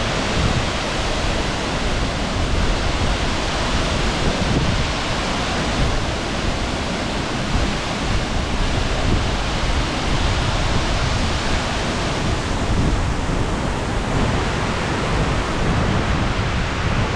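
Large waterfall close by: heavy water falling in a loud, steady rush, with a deep rumble underneath.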